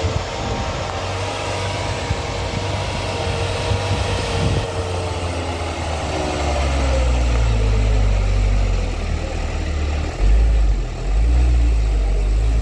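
Heavy vehicle engines labouring on a steep uphill road, with a deep rumble that grows louder from about halfway through.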